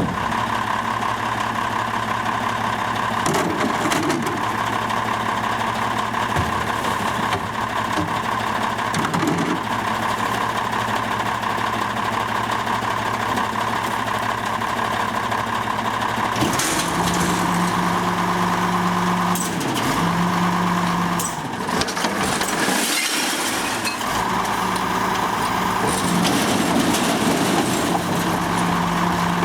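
Recycling truck engine running steadily, with a few short knocks. About halfway through, a louder steady hum joins in and breaks off a couple of times.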